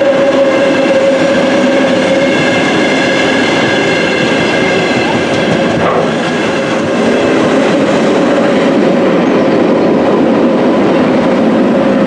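London Underground engineering train of wagons hauled by battery locomotives rolling past, wheels running on the rails with a steady loud rumble and a held whine.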